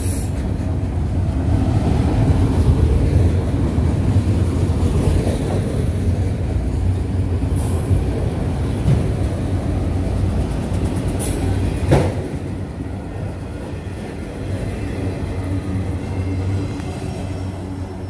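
Train rolling past with a steady low rumble of wheels on rail. A single sharp bang comes about twelve seconds in, then the noise slowly eases off.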